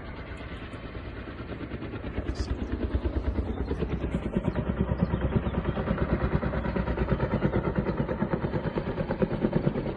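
Helicopter rotor beating in rapid, even pulses with engine noise underneath, growing louder about two to three seconds in as the helicopter comes closer.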